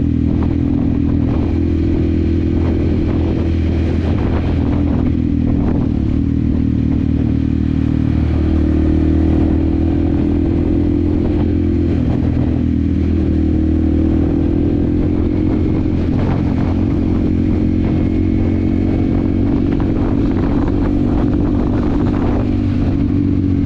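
Yamaha WR155R's single-cylinder engine running steadily under way, its note shifting slightly a few times.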